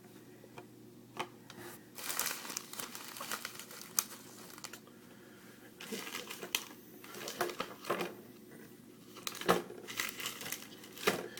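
Sports trading cards and their foil pack wrappers rustling and crinkling as they are shuffled through by hand, with irregular clicks and crackles that come and go.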